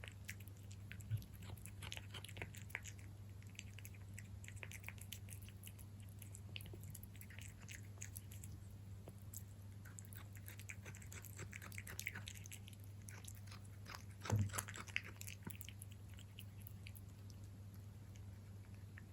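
Cat chewing wet cat food close to the microphone: clusters of small wet clicks and smacks, over a steady low hum, with a louder soft bump about fourteen seconds in.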